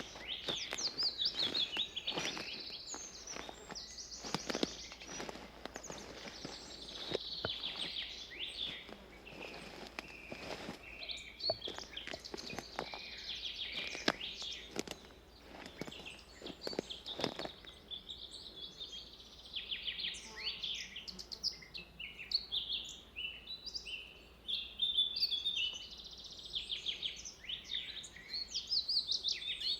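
Several forest birds singing and chirping together, overlapping calls throughout. Footsteps on a forest path crunch along steadily for a bit over half the time, then stop, leaving only the birds.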